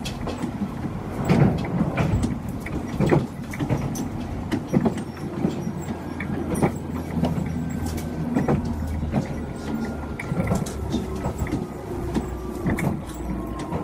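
Chikuho Electric Railway train running, heard from inside the car: a steady low rumble with wheels clacking over rail joints about every two seconds. From about halfway through, a motor whine falls slowly in pitch as the train slows.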